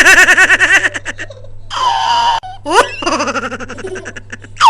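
Young bird calling in rapid pulsed runs of notes that sound like laughter, broken by a few longer single calls.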